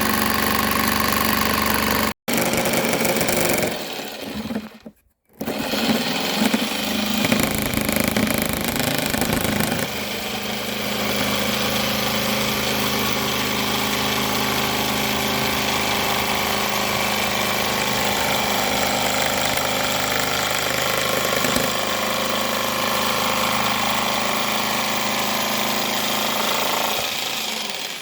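Jigsaw on slow speed with a fine blade cutting through a plastic motorcycle windscreen, running steadily. It stops briefly about four to five seconds in, then cuts on and stops near the end.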